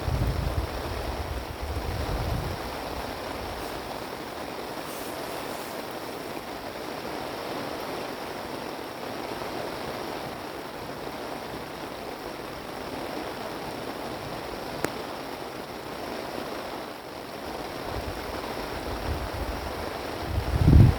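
Strong wind blowing steadily, with gusts buffeting the microphone in low rumbles at the start and again near the end, the loudest just before the end.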